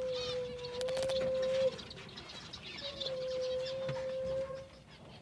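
Caged birds chirping faintly, with two long, steady, low whistle-like tones of about two seconds each, the second starting about three seconds in.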